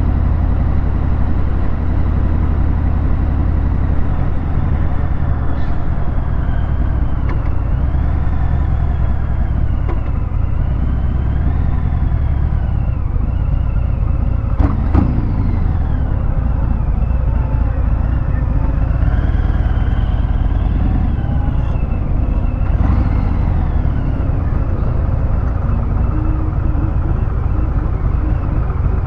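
Harley-Davidson Fat Bob 114's Milwaukee-Eight V-twin running through a Vance & Hines Hi-Output 2-into-1 exhaust, its revs rising and falling repeatedly. A single sharp click about fifteen seconds in.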